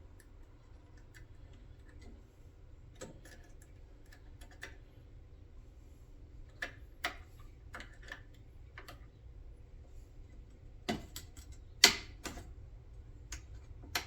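Irregular light clicks and knocks from working a console gear shifter and its park/neutral switch by hand. The loudest clicks are about eleven and twelve seconds in.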